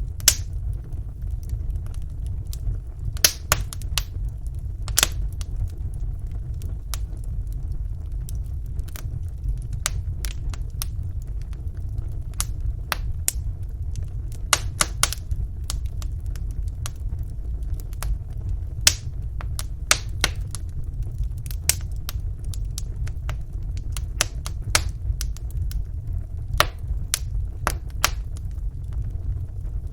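Wood fire burning in a fireplace: a steady low rumble of the flames with irregular sharp crackles and pops from the burning logs, a few louder snaps standing out.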